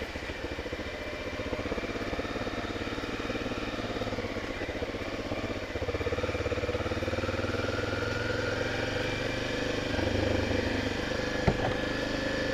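Honda XR250 Tornado's air-cooled single-cylinder four-stroke engine running under way; the engine note steps up about halfway through and then rises slowly. A single short knock near the end.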